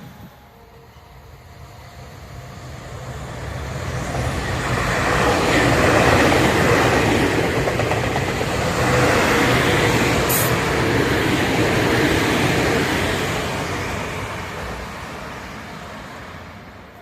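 Tobu Tojo Line electric train passing by: the running noise of wheels on rail builds over a few seconds, stays loud for about eight seconds with a steady tone under it, then fades away. A brief high-pitched hiss comes about ten seconds in.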